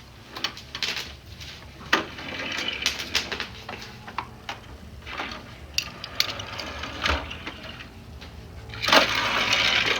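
Plastic toy parts and a die-cast toy car clicking and knocking as a toy car playset is handled, with a louder stretch of rattling and rubbing near the end.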